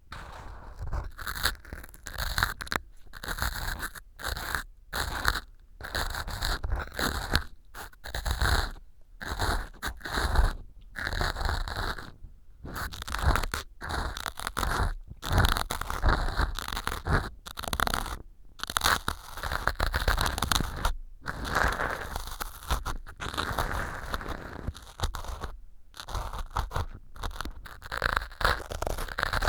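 Ear pick scraping and crunching through small pieces of dry floral foam lodged in a silicone ear model, close to a binaural microphone: quick repeated strokes with short pauses between them.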